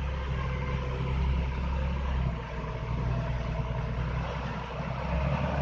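Truck engine running steadily at low revs, with a brief dip about halfway through.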